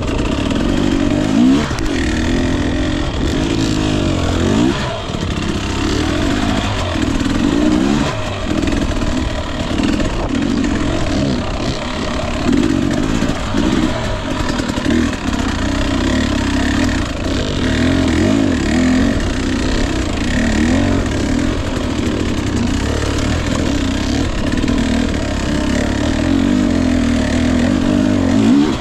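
Husqvarna TE 250i two-stroke dirt bike engine revving up and down over and over as it is ridden through rough terrain.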